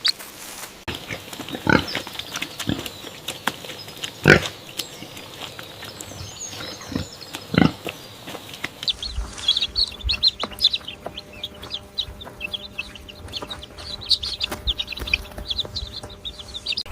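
Pig grunting, a few short separate grunts in the first half, then a busy run of many short, high bird chirps over a low rumble.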